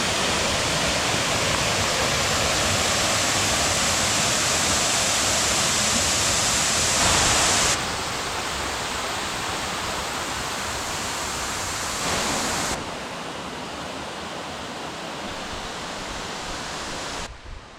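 Mountain stream rushing over rocks: a steady sound of flowing water that drops abruptly in level about eight seconds in and again about thirteen seconds in, then cuts off just before the end.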